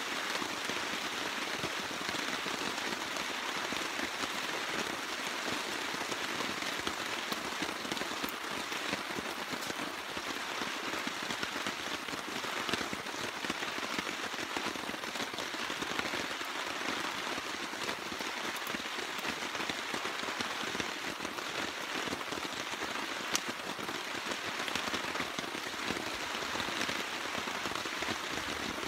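Steady rain falling, with a constant hiss and scattered small drop ticks.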